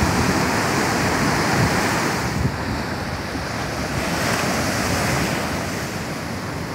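Pacific Ocean surf washing on the beach, a steady rush of water with wind on the microphone, easing a little after about two seconds.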